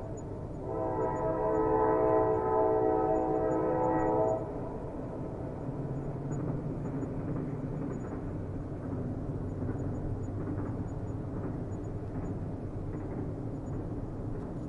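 Train horn sounding a steady chord for about three and a half seconds, cutting off suddenly about four seconds in, followed by the steady low rumble of the train.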